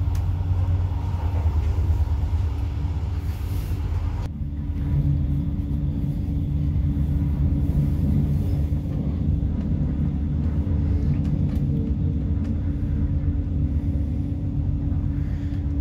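Regional passenger train running at speed, heard from inside the passenger car: a steady low rumble with a constant hum. A brighter hiss above it drops away about four seconds in.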